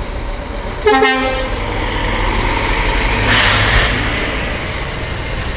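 Scania truck passing with a steady low engine rumble. It gives one short horn blast about a second in, and a short burst of hissing air follows a couple of seconds later.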